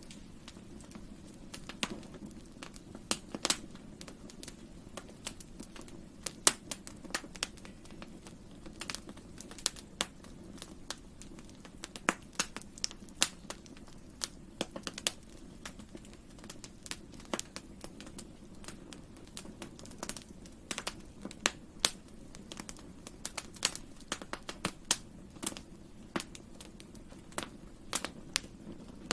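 Wood campfire burning, with a steady low roar and frequent irregular sharp crackles and pops.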